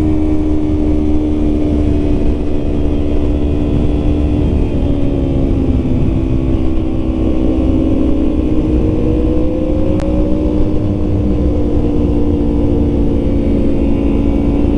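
Yamaha MT-09's three-cylinder engine running at a steady cruise. A fainter engine tone rises slowly about a third of the way through.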